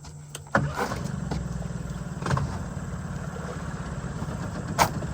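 Boat's outboard motor starting about half a second in, then running steadily at idle, with a sharp knock near the end.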